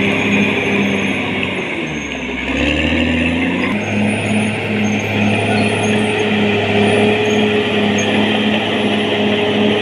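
Caterpillar D6R XL bulldozer working, its diesel engine running with a regular beat. About two seconds in the engine note drops and changes, and the full working sound comes back abruptly near four seconds.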